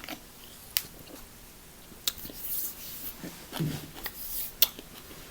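Close-miked mouth sounds of eating: chewing and wet smacking, with a few sharp clicks and two short hissy sucks or slurps.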